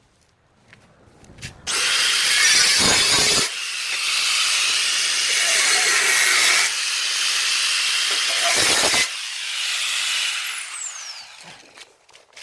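A high-speed handheld power tool cutting in several long passes. Its motor whines very high throughout, then winds down after release about eleven seconds in.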